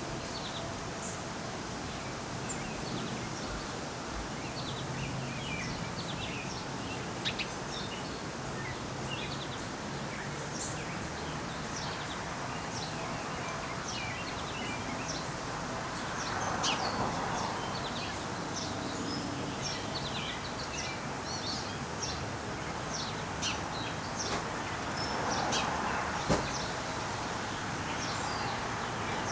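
Many small birds chirping, with short high calls scattered all through and growing busier in the second half, over a steady outdoor noise bed that swells twice. One sharp tap near the end.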